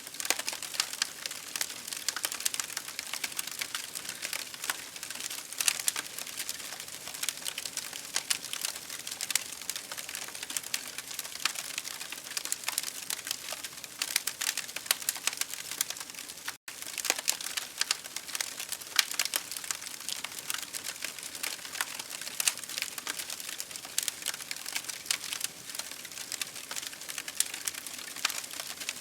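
Campfire wood crackling and popping in dense, irregular snaps over a steady hiss of rain. The sound drops out for a split second a little past halfway.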